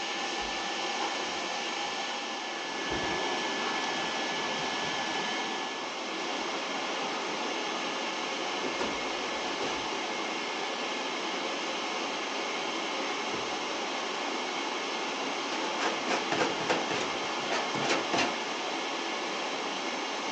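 Vacuum cleaner running steadily while cleaning out an oil furnace. A thin whine fades out after about six seconds, and a run of rattling clicks comes about three quarters of the way through.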